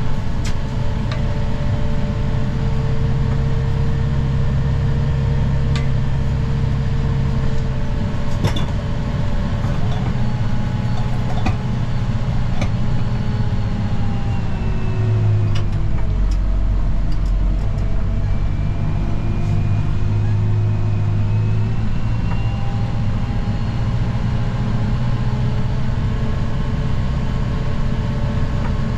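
Snow-plow vehicle's engine running steadily under load, its drone dipping in pitch about halfway through and then rising again, with scattered sharp clicks and knocks.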